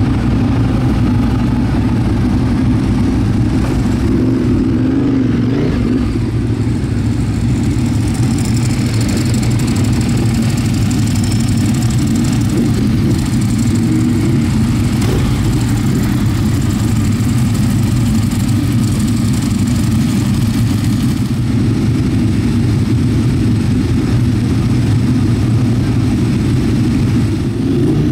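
A motorcycle engine running steadily at a fairly even pitch throughout.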